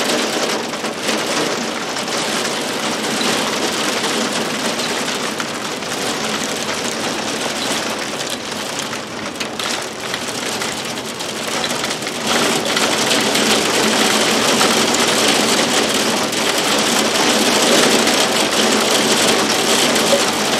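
Heavy rain pouring down, a dense steady hiss that grows louder about twelve seconds in.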